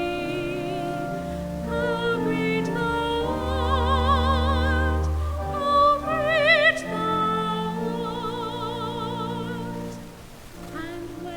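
Church music: a classically trained singing voice with wide vibrato over long, sustained accompaniment chords. It swells loudest about two-thirds of the way through and softens briefly near the end.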